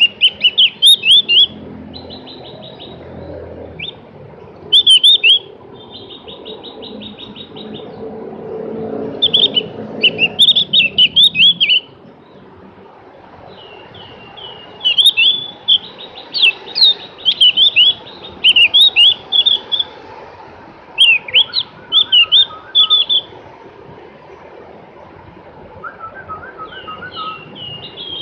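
Javan grey-throated white-eye (opior jawa, also called cucak gentong) singing: loud bursts of quick, high, swooping chirps and fast trills, phrase after phrase with short pauses between. A low rumble sits behind the song for a few seconds near the middle.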